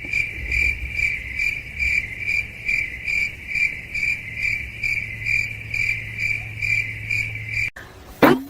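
Insect chirping, cricket-like: a steady high-pitched trill pulsing about three times a second. It cuts off abruptly near the end.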